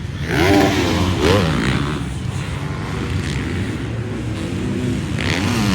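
Several dirt bike engines on a Supercross track, revving up and down over one another as the bikes race past, loudest in the first second and a half.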